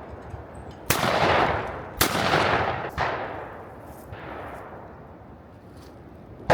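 Three shotgun shots about a second apart, each trailing off in a long echo; the third is quieter.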